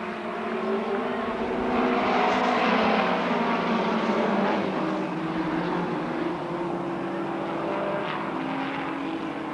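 Midget race car engine running hard on the track, growing louder to a peak a few seconds in as it passes, then easing off.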